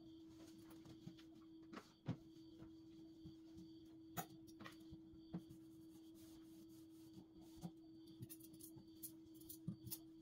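Near silence: a steady faint hum with scattered light clicks and taps, the sharpest about two seconds in.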